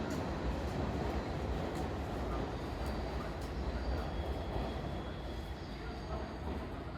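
NYC subway R211A train running along the track: a steady low rumble of wheels on rail that slowly eases, with a faint high whine and a few light clicks.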